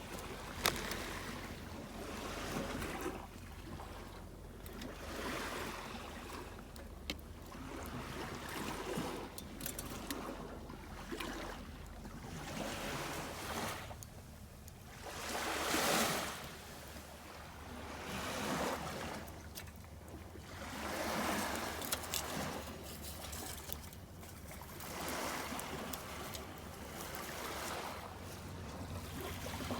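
Small sea waves washing onto a shore, a swell of surf every two to three seconds, over a low steady rumble.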